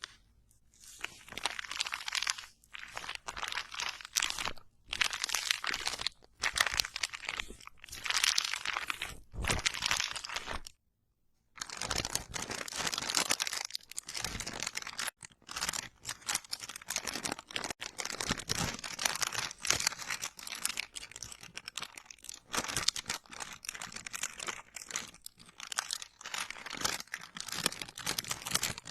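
Close-miked ASMR crinkling and crunching in bursts of a second or two, with a brief dead-silent break about eleven seconds in.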